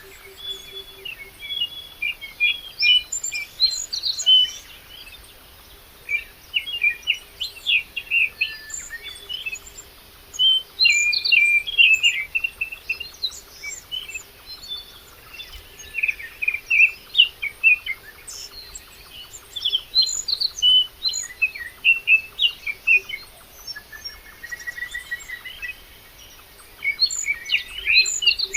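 Several small songbirds chirping and twittering in quick, overlapping bursts, with a short run of even repeated notes about three-quarters of the way through.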